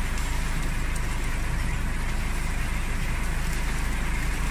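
A vehicle engine idling steadily, a low even rumble with a fine regular pulse.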